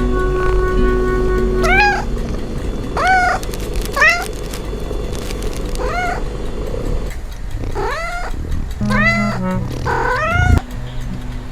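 A cat meowing repeatedly, about eight short meows that each rise and then fall in pitch, over background music.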